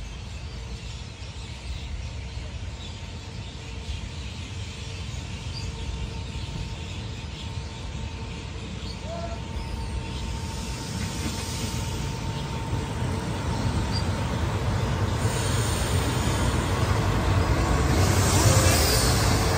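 Diesel passenger train approaching and pulling in alongside the platform, its engine and wheel rumble growing steadily louder. A high hiss rises in over the second half and is strongest near the end, as the cars pass close by.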